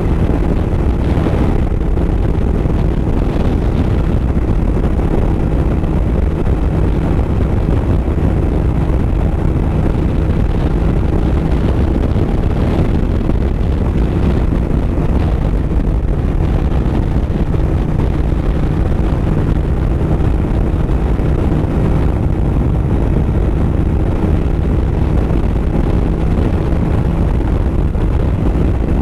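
2007 Suzuki SV1000S's 90-degree V-twin engine running at a steady cruising speed, loud and held at an even pitch, with wind rushing over the microphone.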